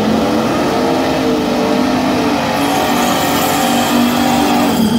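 Car engine running under throttle, its pitch rising in steps and dropping back near the end, with a rushing hiss joining about halfway through.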